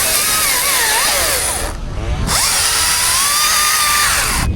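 Chainsaw running hard, its pitch wavering up and down. It breaks off briefly about two seconds in and again near the end.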